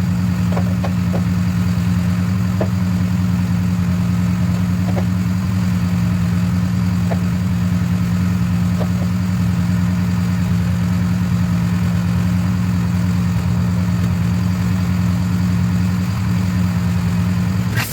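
An engine running steadily at a constant speed, with a low hum and a few faint clicks.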